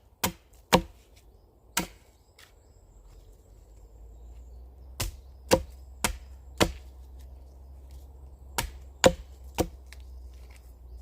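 Axe chopping wood: sharp single strikes in three runs of three or four, about half a second apart, with pauses of a few seconds between the runs.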